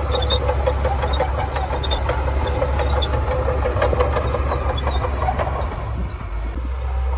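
Shantui DH17C2 bulldozer's diesel engine running steadily under work, with scattered light clanks, easing a little about six seconds in.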